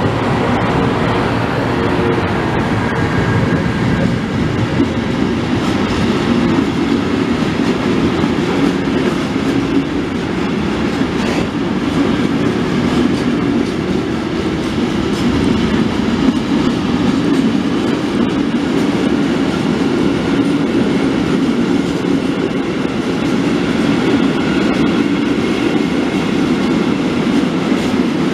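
A long freight train of hooded steel-coil wagons passing at speed behind an E.652 and E.633 electric locomotive pair. The locomotives go by at the start, then the wagons follow: a loud, steady rumble of wheels on the rails.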